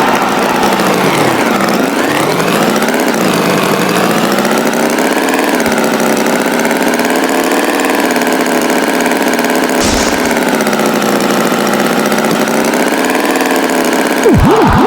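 Tractor engine running, its pitch dropping and then climbing again about two seconds in, then wavering gently. A sharp click comes about ten seconds in.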